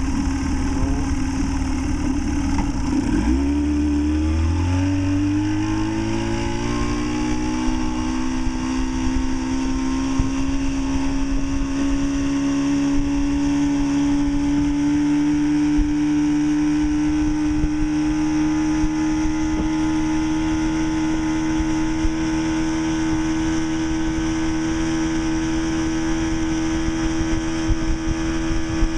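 Force 40 hp two-stroke outboard motor running under way. About three seconds in its pitch dips briefly, then climbs over the next few seconds as it is throttled up, and it then holds a steady pitch.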